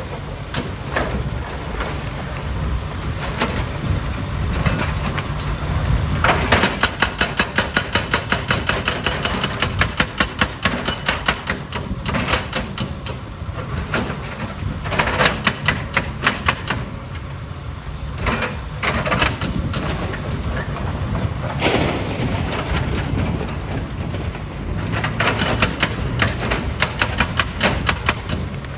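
Heavy rock-processing machinery running with a steady low rumble, broken by several runs of rapid, evenly repeated clattering impacts of stone and metal, the longest lasting about five seconds.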